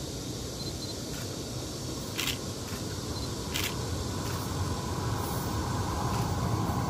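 Taiwan Railway air-conditioned ordinary passenger train approaching, a steady rumble growing louder, with two sharp clicks about two and three and a half seconds in.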